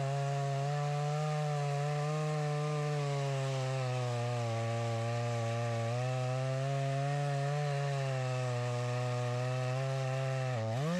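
Chainsaw running at high speed, cutting through a fallen tree trunk, its pitch sagging a little under load a few times. Near the end the pitch drops sharply and climbs back.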